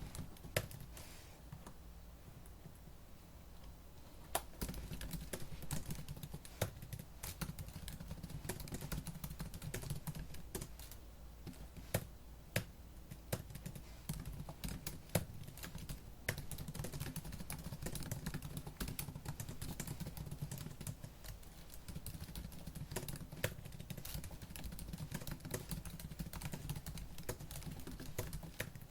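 Fast typing on a laptop keyboard. A few scattered key clicks come first, then rapid, steady keystrokes from about four seconds in, with an occasional louder strike.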